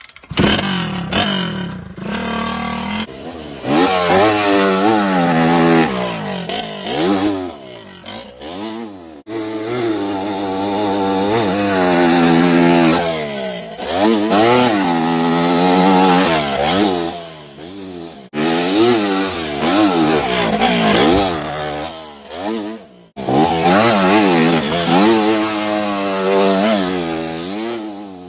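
Motocross bike engines revving hard, their pitch climbing and dropping over and over as the throttle is worked through the gears. The sound breaks off suddenly a few times and picks up again.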